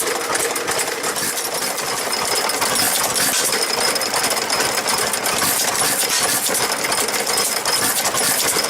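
Vintage engine running with a steady, rapid mechanical clatter of its moving parts.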